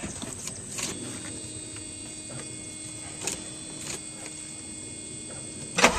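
Inside a 1985 Mercedes diesel car just before starting: a few sharp clicks and a steady faint tone from the switched-on car, then a sudden loud burst near the end as the starter cranks the engine.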